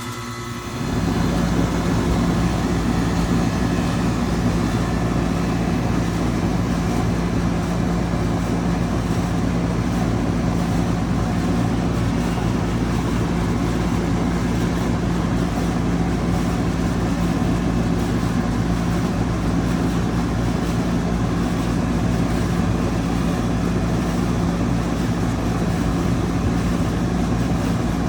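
2003 Carrier 38CKC 3-ton central air conditioner's outdoor condensing unit just switched on: its Bristol reciprocating compressor and GE condenser fan come up to full level within about the first second, then run steadily with a strong low hum under a broad whoosh. The compressor is really loud, super noisy when running.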